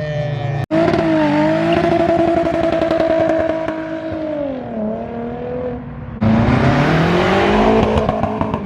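Modified cars' engines revving as they pull away, with the pitch rising and dipping; about six seconds in, a louder engine note rises as a car accelerates hard.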